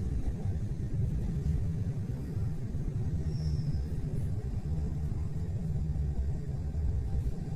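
Train running along the track, a steady low rumbling noise with no change in pace.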